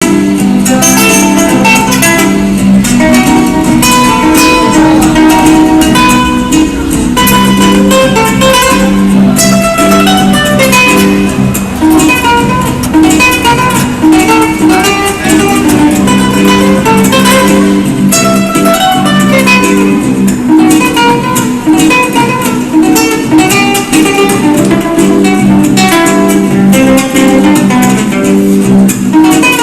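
Flamenco-style acoustic guitar music, with fast strumming and plucked notes.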